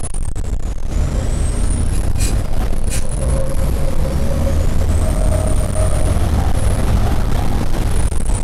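Racing trucks' diesel engines running loud, with a high whistle that falls and then rises again. Two short hissing bursts come about two and three seconds in.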